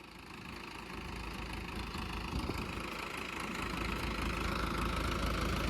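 Tractor diesel engine running, growing steadily louder throughout.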